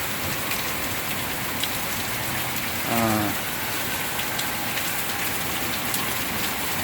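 Heavy rain falling steadily, with a single short pitched call or honk about three seconds in.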